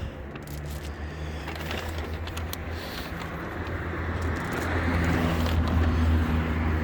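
A motor vehicle's engine running close by, a low steady hum that grows gradually louder over several seconds as it approaches.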